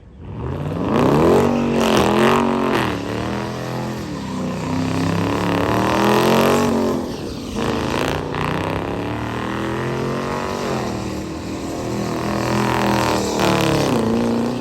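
A car engine revved hard again and again, the pitch climbing and dropping about five times. It comes in suddenly at the start.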